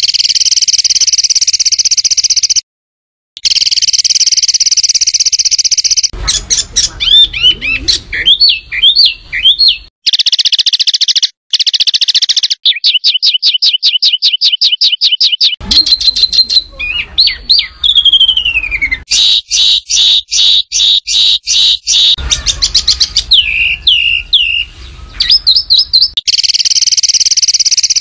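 Loud, harsh songbird song from a masteran training track: dense high trills and chatter, a fast even run of ticking notes in the middle, and whistled notes that glide downward, with abrupt cuts between phrases where the recording has been spliced.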